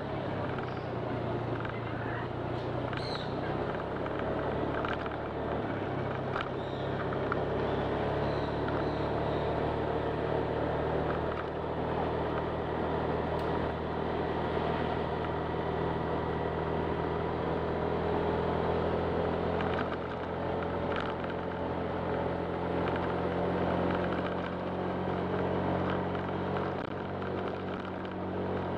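Honda Click 125 scooter's single-cylinder engine running under way, with a steady drone whose pitch shifts at a few points, over wind and road noise.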